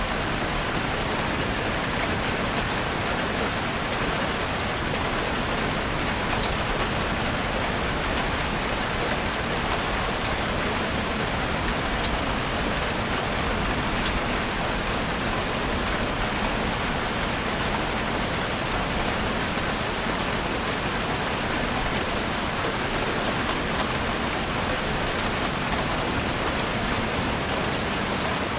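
Heavy rain falling steadily on a roof: a dense, even hiss sprinkled with faint separate drop ticks.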